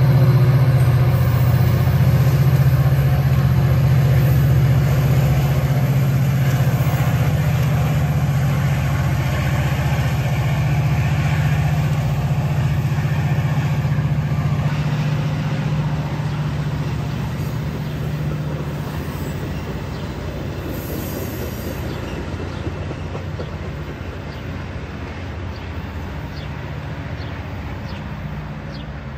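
Metra commuter train pulling away: the diesel locomotive's steady low engine drone and the bi-level cars rolling on the rails, fading steadily as the train recedes.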